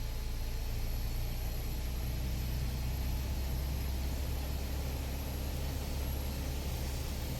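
Piper Archer II's four-cylinder Lycoming engine and propeller running steadily, a constant low drone heard inside the cockpit, with a thin high whine held throughout.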